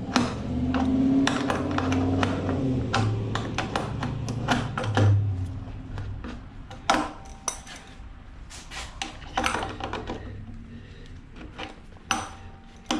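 Hand-tool work on scrap metal: a low, shifting drone for roughly the first half, and scattered knocks and metallic clinks throughout, more spaced out later.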